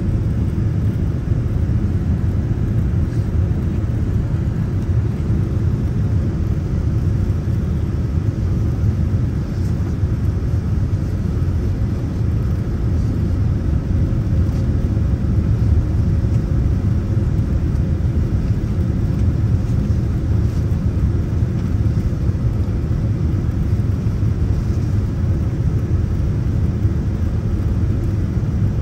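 Steady low rumble of an airliner's engines and airflow heard from inside the passenger cabin during the descent to landing, with a faint steady hum above it.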